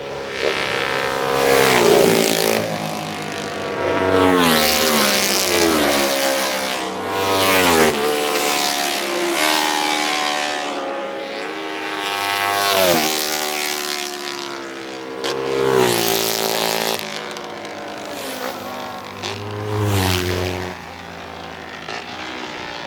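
Road-racing motorcycles passing at full speed one after another, each engine note dropping in pitch as it goes by. A string of loud passes follows close together.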